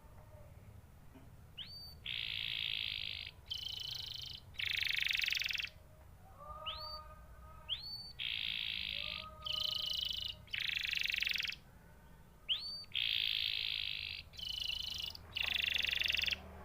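Domestic canary singing: three bouts of song, each opening with quick rising whistled notes and running into fast buzzing trills about a second long apiece.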